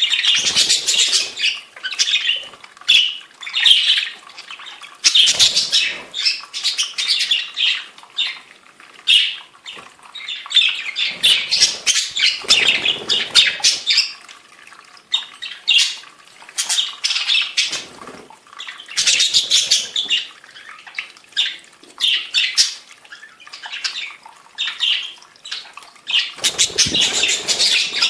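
Budgerigars chattering and warbling in repeated bursts of fast, high-pitched calls mixed with squawks, with a few lower rustling bursts in between.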